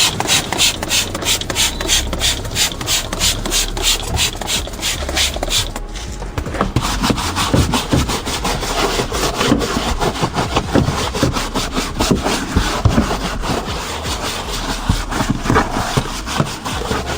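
A brush scrubbing back and forth during car cleaning. It keeps a steady rhythm of about four strokes a second at first, then turns faster and more irregular after about six seconds.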